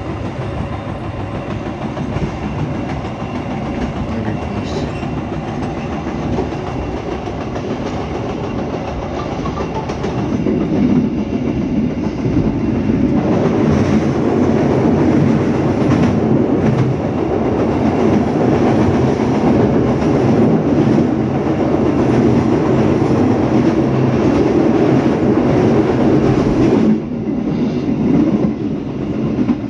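Passenger train carriage running on the track, heard from the rear of the last car: a steady rumble and rattle of wheels over the rails. It grows louder about ten seconds in as the train crosses a steel bridge, then drops back suddenly near the end as it comes off.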